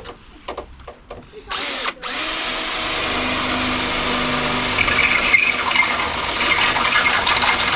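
Power drill on the steel body panel of a mk2 Ford Fiesta, working at the spot welds: it runs briefly about a second and a half in, then spins up again and runs steadily to the end.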